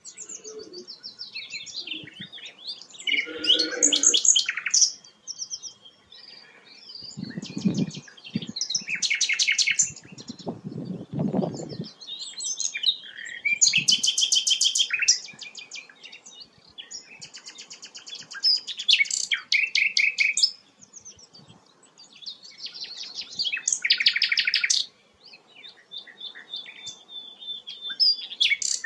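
A songbird singing a run of varied phrases, each a fast series of repeated notes or trills, separated by short pauses. Two brief low rumbles sit under the song about a third of the way in.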